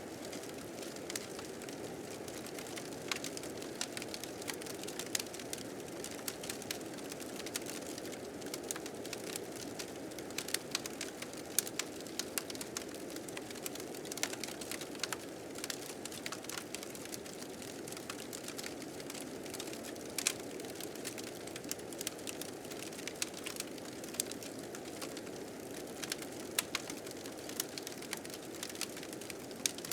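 Fire crackling, with frequent sharp pops, over the steady low rush of blizzard wind.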